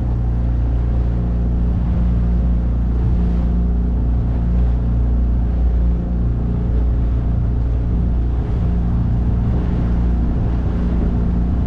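9.8 hp outboard motor running steadily at a fairly low throttle, a constant low engine drone.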